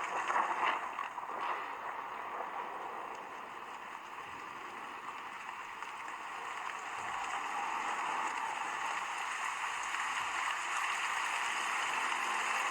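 Dolby Atmos demo audio playing at full volume through the Lenovo Tab 2 A8 tablet's small built-in speakers: a steady noisy wash with no bass, louder in the first second or so, dipping, then building again.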